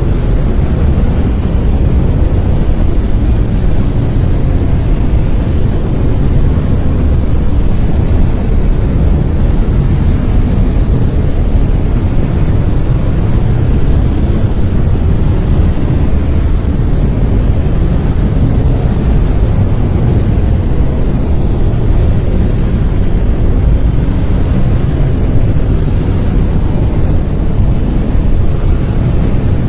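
Steady brown noise: a loud, deep, rumbling hiss, strongest in the bass and fading toward the treble, with no changes or events.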